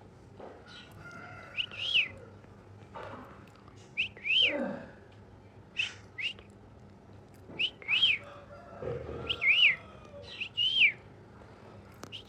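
Pet parrot whistling: short whistles that rise and fall, often in pairs, repeated every second or two, with a few lower rasping calls in between.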